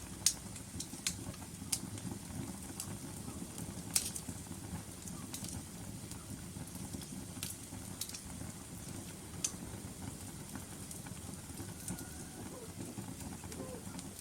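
Wood logs burning in a fireplace: sharp, irregular crackles and pops over a steady low rumble of the flames.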